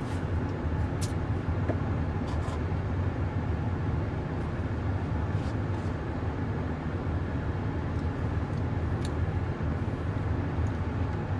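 Steady low rumble of a car idling, heard from inside the cabin, with a few faint clicks over it.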